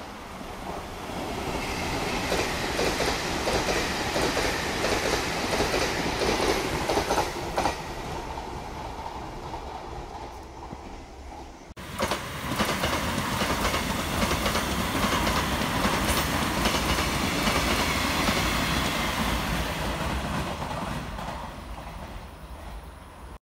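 Two Taiwan Railway electric trains passing one after the other: steel wheels rumbling and clicking over rail joints, the noise swelling as each train goes by and then easing off. The first breaks off suddenly about halfway, and the second, an electric multiple unit, fades away near the end.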